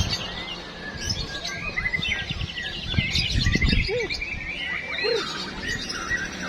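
Several caged white-rumped shamas (murai batu) singing at once, with rapid overlapping trills and chirps.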